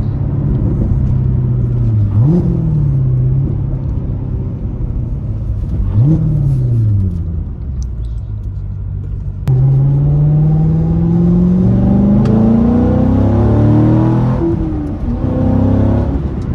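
Car engine running, blipped twice so the revs jump up and fall back. Then it pulls hard, its pitch climbing steadily for about five seconds before the revs drop near the end.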